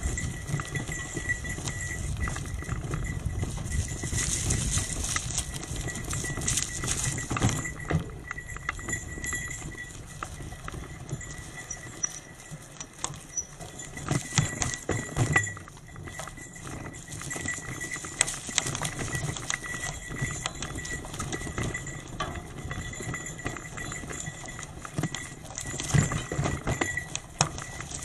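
Hybrid bicycle riding over a rough forest road: a steady rolling rattle with many irregular clicks and clanks from the frame and parts, with louder jolts of clattering here and there.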